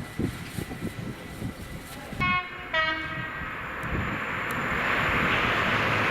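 A train's two-tone horn: a short higher note about two seconds in, then a slightly lower one. It is followed by the rush of the train growing louder as it approaches.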